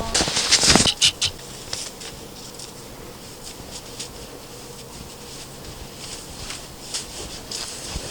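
Footsteps crunching through wet snow for about the first second, then only faint scattered crunches and ticks.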